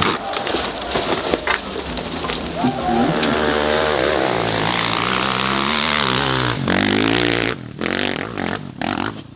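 Dirt bike engine revving hard, its pitch climbing for several seconds as the bike pulls up the slope. It drops off suddenly about two-thirds of the way in, followed by a few short blips of throttle.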